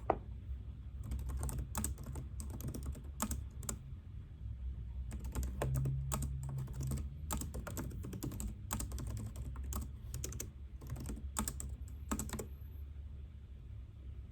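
Typing on a computer keyboard: runs of keystroke clicks in several spurts with short pauses, over a steady low hum.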